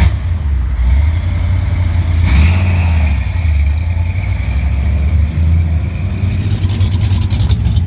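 Car engine running loud and revving hard during a burnout, with a high, steady tyre squeal starting about two seconds in.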